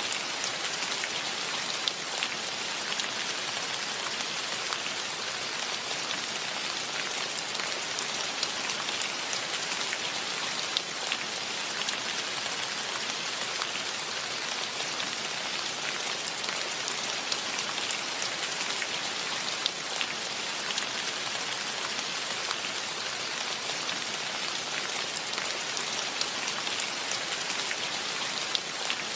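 Steady rain falling, an even hiss with many separate drops ticking and pattering on leaves and surfaces.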